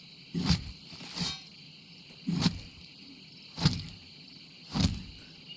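An axe hacking repeatedly into a body: heavy chopping strikes about once every second, five in all, over a faint steady night hiss.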